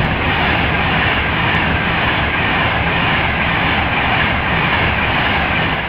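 Class 390 Pendolino electric train passing at high speed: a loud, steady rush of air and wheel-on-rail noise that starts to fade near the end.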